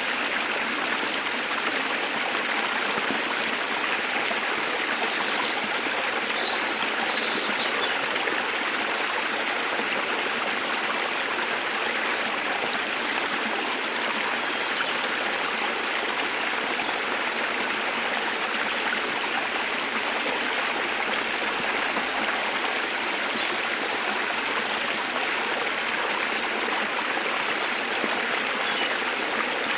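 Waterfall rushing steadily, with a few faint, brief bird chirps high above it now and then.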